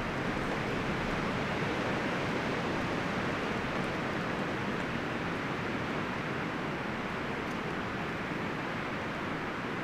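Wind blowing through forest trees: a steady, even rustle of leaves and branches, a little louder for the first few seconds and then easing slightly.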